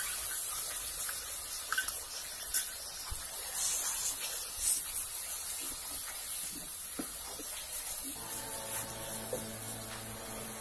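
Masala paste frying in hot oil in a kadai with a soft sizzle, while a steel spoon stirs it, clinking and scraping against the pan now and then.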